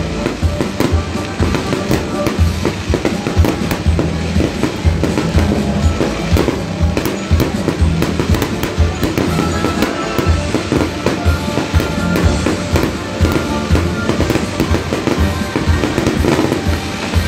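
Fireworks display: a dense, continuous run of sharp bursting bangs and crackles, with music playing underneath.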